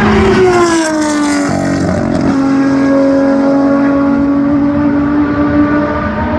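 Historic racing car engine passing close by, its pitch dropping as it goes past, then an engine note held steady.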